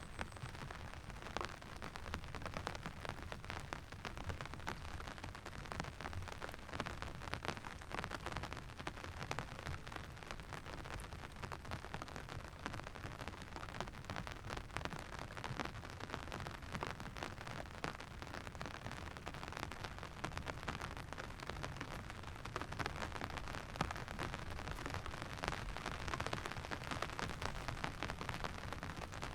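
Steady rain falling, a dense patter of drops that grows a little louder about three-quarters of the way in.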